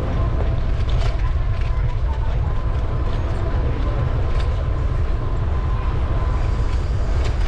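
Wind rumbling steadily on the microphone of a moving bicycle, over city street noise with a few light clicks and a faint steady high tone.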